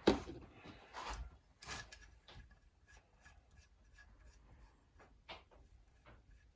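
Metal tools and engine parts handled on a workbench: a sharp knock right at the start, then a few lighter clunks and small clicks.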